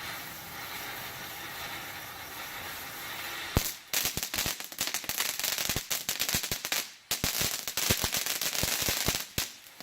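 TNT Radiant Fountain ground firework spraying sparks with a steady hiss. About three and a half seconds in, a sharp crack, then dense rapid crackling pops to the end.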